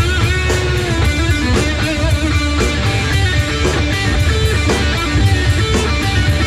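Live rock band playing an instrumental passage: electric guitar over bass and drums, with steady beats.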